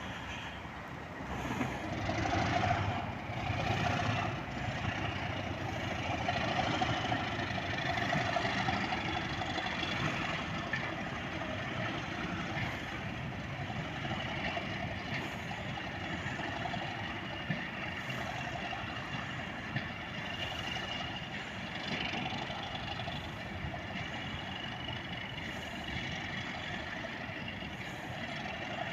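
Class 37 diesel locomotive's English Electric V12 engine running, louder during the first ten seconds or so and then settling to a steady level.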